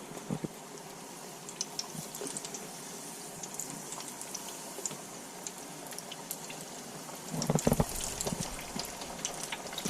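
Breaded fish chunks frying in hot oil in a small Fry Daddy deep fryer: a steady hiss with many small, quick crackles. Louder handling knocks come in over the last couple of seconds.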